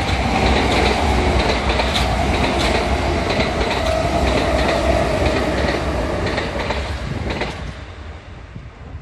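A Kintetsu electric train running through the station without stopping: a loud rumble and hiss with rapid clacking of wheels over the rail joints and a steady whine. It fades out about three-quarters of the way through as the last car clears.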